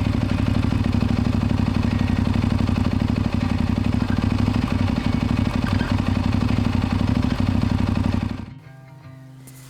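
Aprilia Tuareg 660's parallel-twin engine running steadily through a very loud aftermarket exhaust, with a fast, even pulsing beat. The engine sound stops abruptly about eight and a half seconds in, leaving quieter music.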